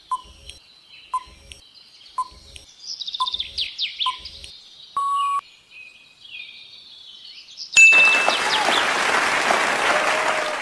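Quiz sound track: recorded birdsong chirping under a countdown tick about once a second for five ticks, then a short beep about five seconds in. About eight seconds in, a loud rushing noise takes over and runs until near the end.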